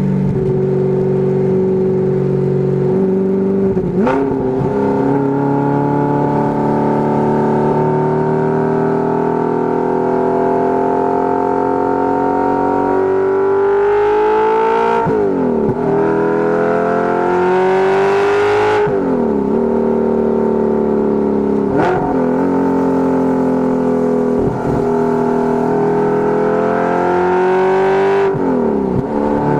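Audi R8's 4.2-litre V8 running through a Fast Intentions aftermarket exhaust while driving. The engine note climbs slowly in pitch, then breaks sharply and settles at a new pitch about six times, as with gear changes on the manual gearbox.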